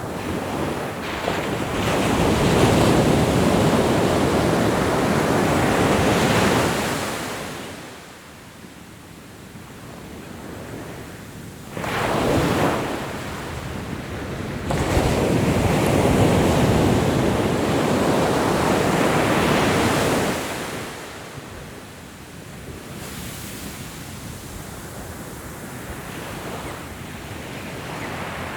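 Ocean waves breaking and washing up the shore in slow surges. Two long crashes each last about five seconds, a shorter one comes near the middle, and quieter wash runs between them.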